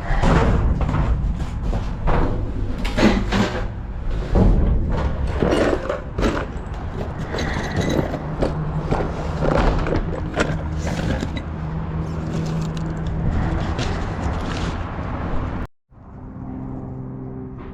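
Clattering, knocks and scrapes of items being rummaged through and handled, cutting off suddenly near the end to a steady engine hum.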